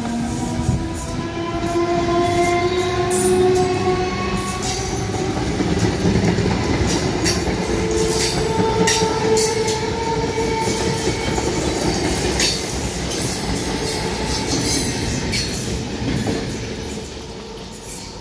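Indian Railways suburban EMU local train passing close by: a dense rumble with wheels clicking over rail joints and some tones gliding up and down. It grows quieter near the end as the train moves away.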